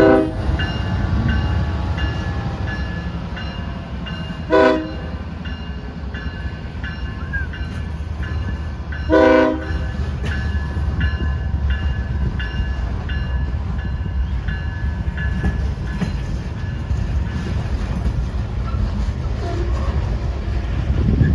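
ES44DC diesel locomotive working at low speed with a steady engine rumble, sounding three short horn blasts about four to five seconds apart in the first half. A faint high ding repeats about once a second.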